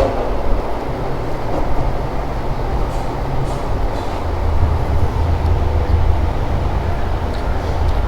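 Steady low rumbling background noise with no speech, and a few faint clicks about three to four seconds in.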